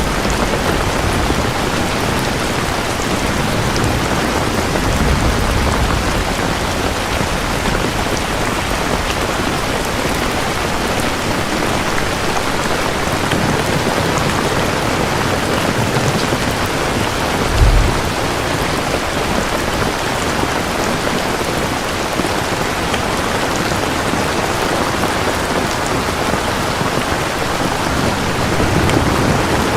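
Steady, heavy rainfall with low thunder rumbling now and then. One short, low thump about two-thirds of the way through is the loudest moment.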